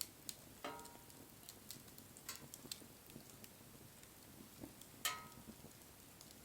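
Wood fire crackling: irregular light ticks and a few sharp pops, the loudest pop about five seconds in.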